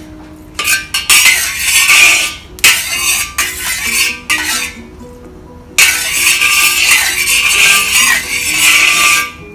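Metal ladle scraping and swirling oil around a wok in three long rasping strokes with short pauses between them, as the oil is heated. Background music plays underneath.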